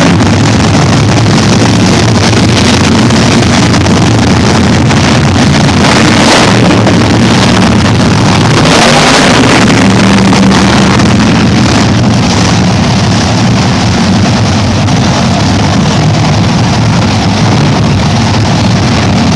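Monster truck engine running very loud, its pitch shifting as it revs, with a couple of brighter surges about a third and halfway through.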